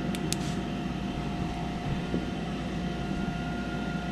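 Newly installed inducer draft motor on a Carrier gas furnace running with a steady whirring hum and a constant whine, during the furnace's start-up before the igniter lights. Two short clicks sound near the start.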